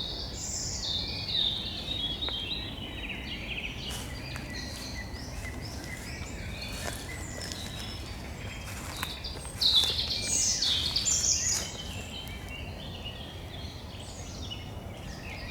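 Small birds singing in a forest over a low steady background hiss: a warbling phrase sliding downward in the first few seconds, a louder burst of song about ten seconds in, and a few faint clicks between.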